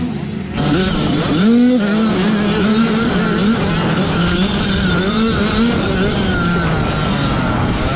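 Two-stroke 85cc motocross bike engines racing, their pitch rising and falling over and over as the riders rev and shift, with a sharp rise about a second and a half in.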